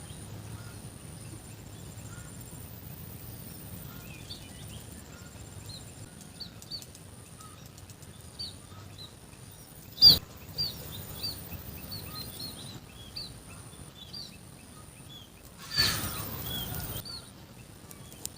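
Small birds chirping repeatedly over a low outdoor background. A single sharp knock comes about ten seconds in, and near the end there is a burst of noise lasting about a second.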